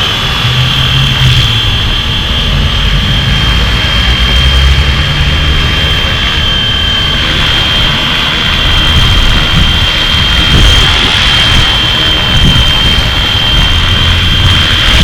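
Flywing FW450 V3 electric RC helicopter in flight, its motor and rotors giving a steady high whine over a rushing noise.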